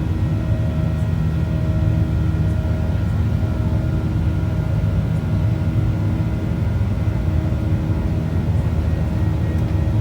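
Airliner jet engines heard from inside the cabin, a steady low drone with a constant hum of engine tones over it, as during the climb after take-off.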